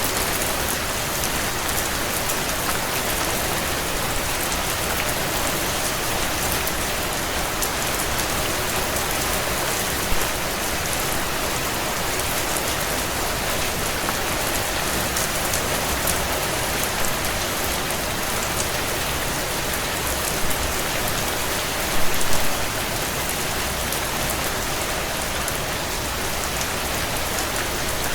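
Heavy rain drumming steadily on a tin roof, a dense patter of drops with a few louder drop hits about ten seconds in and again around twenty and twenty-two seconds.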